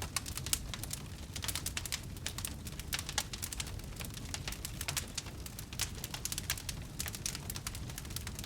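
Wood burning in a bonfire, crackling with many irregular snaps and pops over a steady low rumble of the flames.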